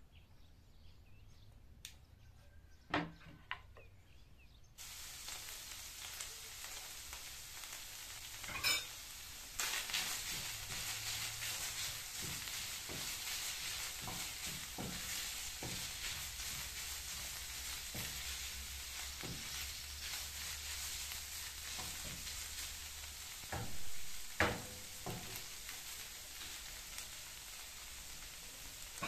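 A few knife chops on a wooden cutting board, then, from about five seconds in, minced meat and onions sizzling in a frying pan with a steady hiss, stirred with a wooden spatula that knocks and scrapes against the pan now and then.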